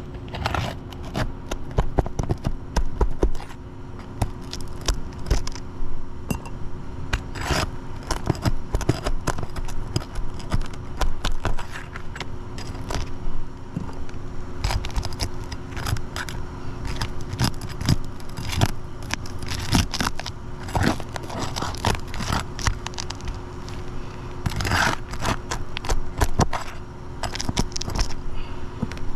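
Irregular scraping, crackling and tapping of shoes and hands moving over gritty asphalt roof shingles, with a steady low hum underneath.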